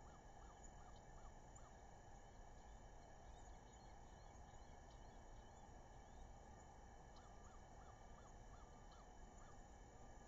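Faint outdoor ambience with a steady hiss, and a distant bird calling a series of short repeated notes, about three a second, at the start and again near the end.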